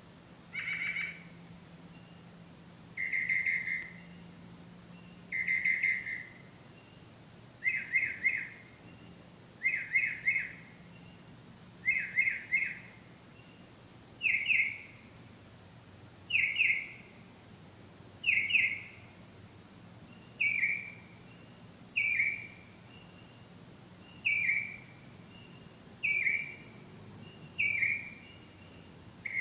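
A songbird singing short phrases about every two seconds. The phrase type changes every few repeats: first single burry notes, then quick triple notes, then sharp down-slurred notes. A faint low hum sits underneath.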